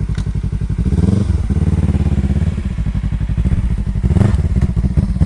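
Motorcycle engine running under way, its pulsing note rising about a second in and shifting again near the end, with a brief rattle partway through.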